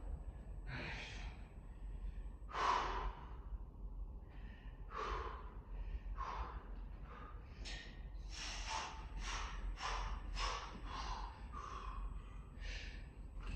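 A person breathing hard from exertion in sharp, noisy puffs. The breaths are a couple of seconds apart at first, then come quicker, about two a second, from about eight seconds in.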